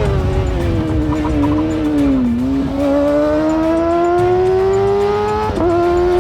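Motorcycle engine running: the revs drop over the first two seconds, then climb steadily, with a brief break in the tone near the end, over a low rush of noise.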